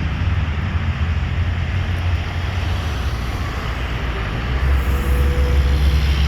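Large military aircraft's engines running during its landing at the airport: a steady, loud, deep rumble with a faint hiss above it.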